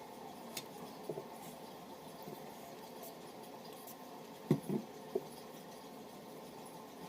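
A few faint taps and clicks of small tools and parts being handled at a repair bench, over a steady background hiss. The loudest taps come as a quick cluster of three about four and a half seconds in.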